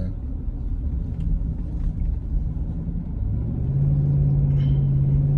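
Low, steady engine and road rumble of a moving vehicle heard from inside the cabin. About three seconds in, a steady engine drone comes in and grows a little louder.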